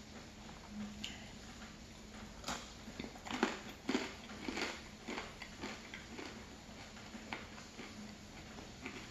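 Close-up mouth sounds of chewing a piece of bread dipped in hot chocolate. A cluster of sharp crunching clicks about two and a half to five seconds in, then softer, scattered chewing.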